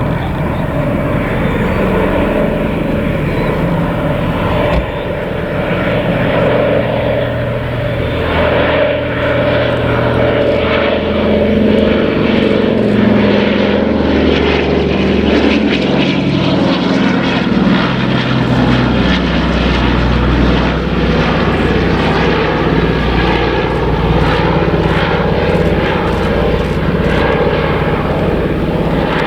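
Douglas C-47 Dakota's twin Pratt & Whitney R-1830 radial piston engines running in a display flypast, propellers droning; the engine note drops in pitch about halfway through as the aircraft passes.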